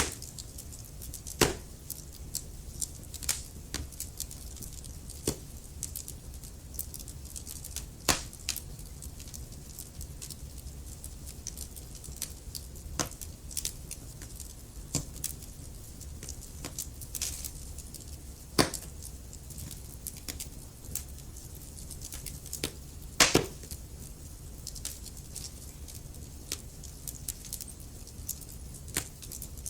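Wood fire crackling in a fireplace: irregular sharp snaps and pops, a few of them much louder, over a steady low rumble.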